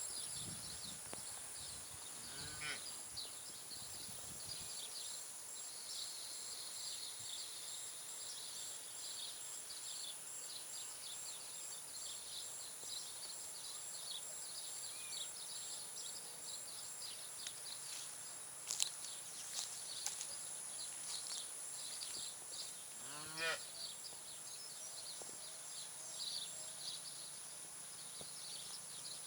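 Two bleats from a sheep or goat, one near the start and one about 23 seconds in, over a steady high insect buzz and many quick chirps of rural outdoor ambience.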